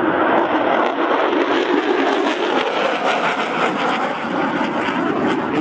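Loud, steady engine noise from military aircraft flying past overhead: the F-35B jet and KC-130J Hercules turboprop tanker in a refuelling-formation flypast.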